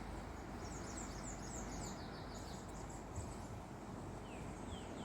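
Small birds chirping: a quick run of short, high, falling chirps in the first half, then a few single lower chirps near the end, over a steady outdoor hiss.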